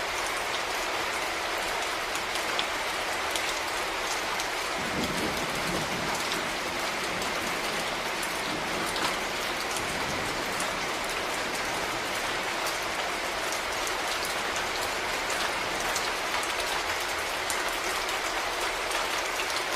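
Steady rain falling, a dense patter of drops hitting a surface, with a short low rumble swelling in about five seconds in.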